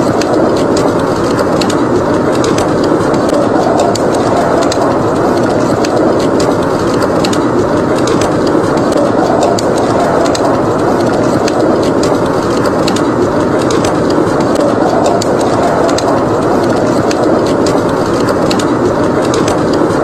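Steady howling wind with a wood fire crackling, many small pops and snaps over the wind throughout.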